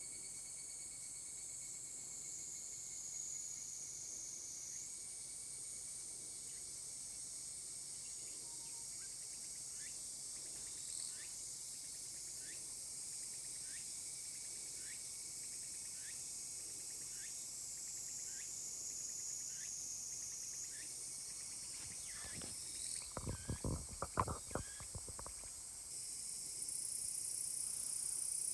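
Cicadas singing in a steady high-pitched chorus that shifts in pitch a few times, with short falling chirps repeating about once a second through the middle. A cluster of loud knocks and rattles comes about three-quarters of the way through.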